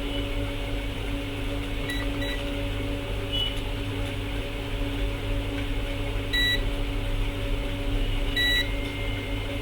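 Short, high electronic beeps from bench test equipment: two quick beeps about two seconds in, then single, slightly longer beeps about six and eight and a half seconds in. Under them runs a steady electrical hum.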